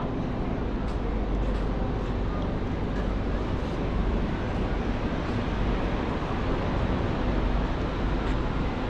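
Steady city street noise: a low traffic rumble under an even hiss, with a few faint ticks.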